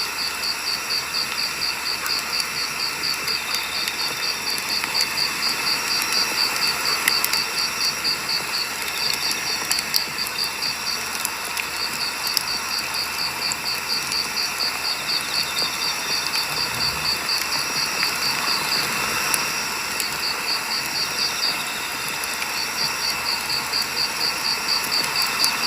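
Firewood burning in a campfire, a steady hiss with occasional sharp crackles and pops. A cricket chirps in a rapid, even high-pitched pulse over it, pausing briefly a few times.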